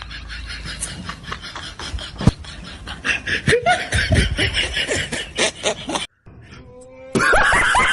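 Laughter in quick repeated bursts of a few a second. It cuts out briefly about six seconds in, then comes back louder near the end.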